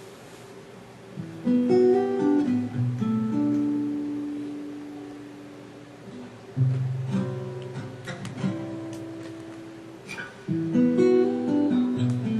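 Instrumental intro of a live band song: guitar chords struck about every four seconds, each ringing out and slowly fading, over low sustained bass notes.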